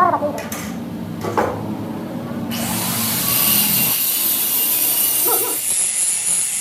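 A power tool working on metal: a low hum with a few knocks, then about two and a half seconds in a steady, rough, high hiss of abrasive grinding or cutting.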